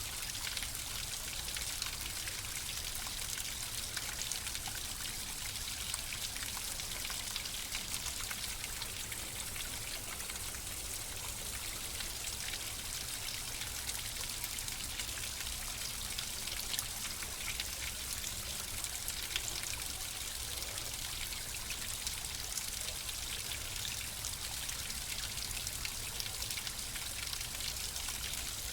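Water flowing steadily in a stream, with a continuous rush and many small splashes and trickles.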